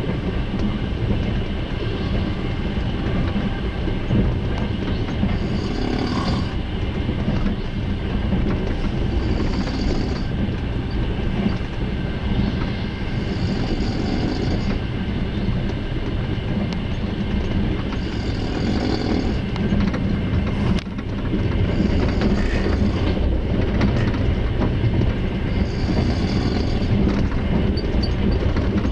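A long-distance passenger train running at speed, heard from inside the carriage: a steady low rumble of the wheels on the rails. A high hiss or squeal swells and fades every few seconds, and the running noise grows slightly louder about two-thirds of the way through.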